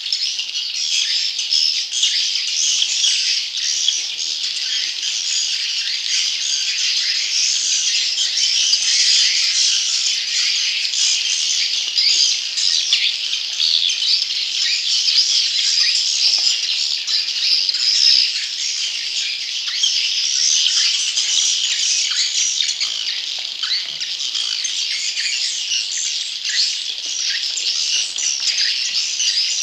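Dense, unbroken chorus of young edible-nest swiftlets chattering in rapid, high chirps. This is a swiftlet lure call, played to draw wild young swiftlets into a nesting house.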